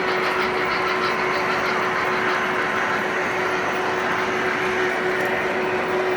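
Model trains running on a layout: a steady rolling rumble of wheels and motors with a constant hum, and a fast even clicking that fades out about a second in.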